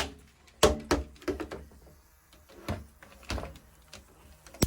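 A series of sharp knocks and clicks, about six over four and a half seconds, as a Bug Warrior Supreme bug zapper is used to hunt down a large fly.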